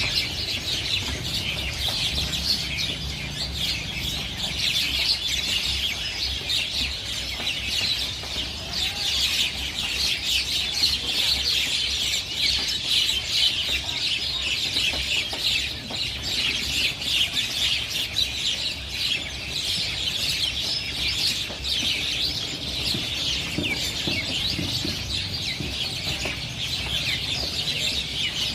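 A flock of small birds chirping continuously, many short high calls overlapping into a steady chatter.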